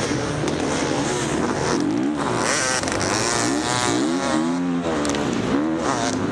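Four-stroke single-cylinder dirt bike engine revving, its pitch rising and falling over and over as the throttle opens and closes, under a rushing noise.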